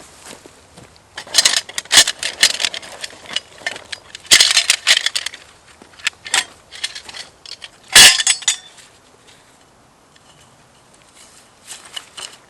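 Gear being handled: bursts of rattling and metallic clinking, then a single sharp knock about eight seconds in.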